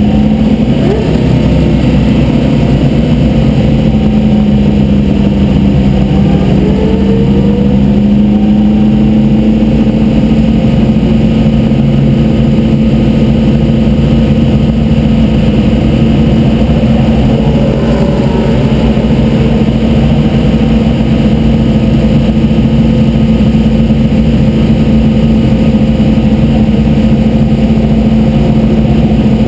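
Vintage race car's engine heard from inside the open cockpit, running continuously at steady revs, its note sagging slightly a few seconds in and then holding level, with road and wind noise underneath.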